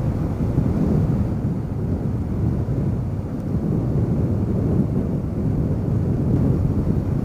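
Steady wind rush on the camera's microphone from riding a Yamaha WR250R dual-sport motorcycle at highway speed, a low even roar with the motorcycle's running mixed underneath.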